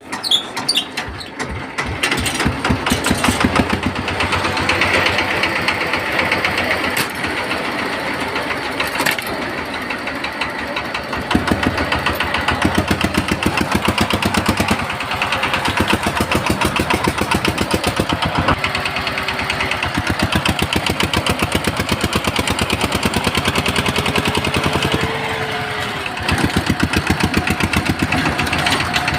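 A vehicle engine running steadily with a rapid, even chugging.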